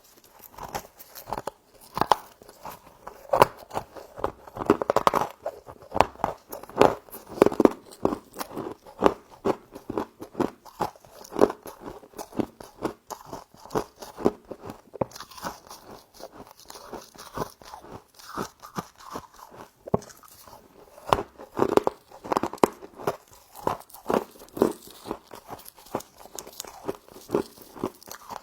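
Close-up crunching and chewing of humidifier frost, with many rapid, irregular crunches.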